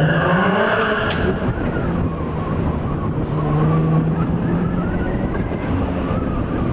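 Chevrolet Camaro's engine pulling the car up a curving parking-garage ramp. The engine note rises through the first second, then holds a steady drone, with tyre and road noise, as heard from a microphone mounted on the outside of the car.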